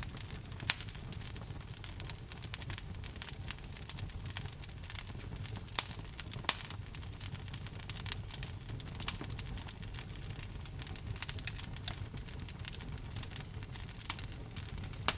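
Wood logs burning in a fireplace, crackling steadily with a few louder pops over a low, steady rumble of the fire.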